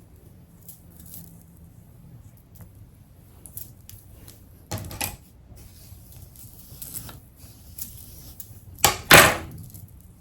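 Small objects being handled and set down: scattered light knocks and rustles, with a louder pair about five seconds in and the loudest pair near the end.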